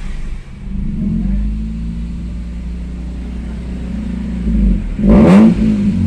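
Toyota Great Corolla's petrol engine running, with a brief louder rise about five seconds in.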